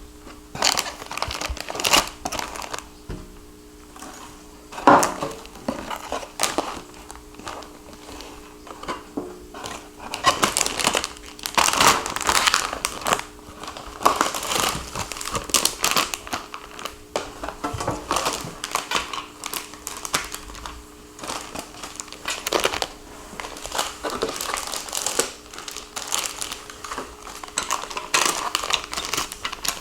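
Packing material crumpled and rustled by hand while a parcel is unpacked, in irregular crinkling bursts.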